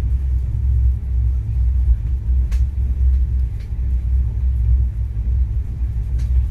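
Steady low rumble of a moving passenger train heard from on board, with a few faint clicks.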